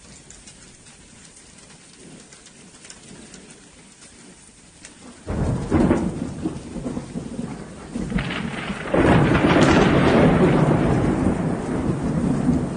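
Hailstorm: light patter of hail and rain with small ticks, then about five seconds in a much louder rumbling storm noise sets in suddenly, growing louder again about nine seconds in.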